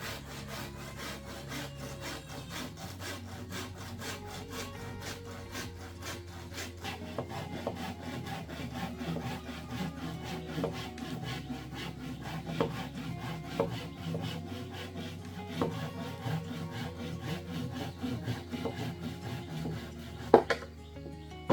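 Hand sawing through wood in steady, even strokes, with one sharp knock near the end.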